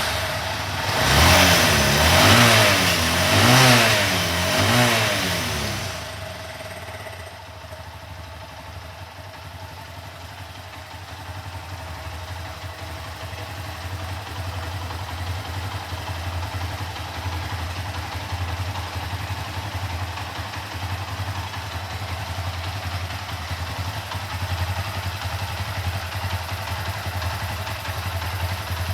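Honda FTR223's air-cooled 223 cc single-cylinder engine, just started, blipped four times in quick succession, then settling into a steady idle.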